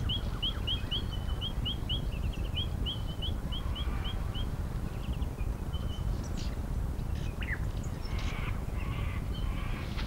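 Wild bird calls on open grassland: a bird chirping rapidly in an even run of short rising notes, about five a second, which stops about four seconds in. Scattered chirps and a few harsher calls follow over a low steady rumble.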